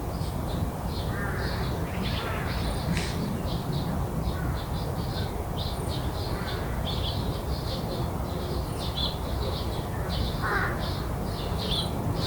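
Garden ambience: a steady run of short, high chirps repeating several times a second, typical of crickets, with a few louder bird calls breaking in, most clearly just after ten seconds. A constant low rumble runs underneath.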